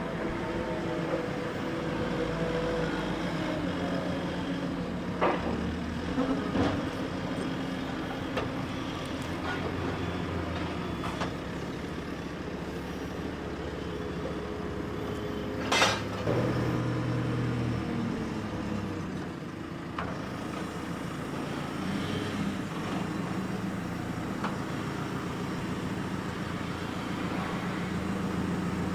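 A heavy engine running at a steady speed, with a few sharp metal knocks and one loud crack a little past halfway.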